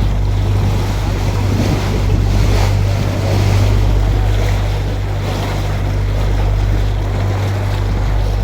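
Canal tour boat's motor running at a steady low hum as the boat cruises, with wind buffeting the microphone.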